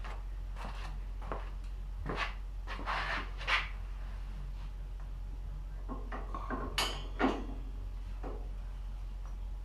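Metal parts and tools being handled on a workbench: scattered clanks, knocks and scrapes, the sharpest about three and a half and seven seconds in, over a steady low hum.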